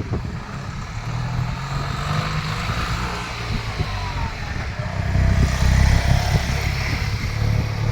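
An engine running with a steady low rumble, getting louder about five seconds in.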